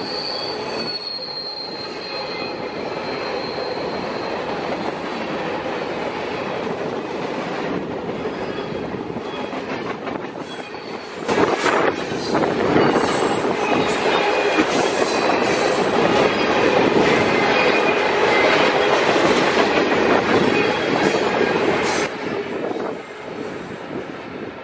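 Freight train cars rolling along the track, a thin high wheel squeal in the first few seconds over a steady rumble and clatter of wheels on rail. It grows much louder from about halfway through as the cars pass close by, then drops back near the end.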